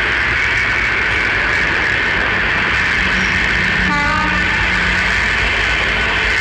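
Indian Railways diesel locomotive hauling flat wagons of concrete sleepers past, engine and wheels running steadily, with a brief toot of the horn about four seconds in.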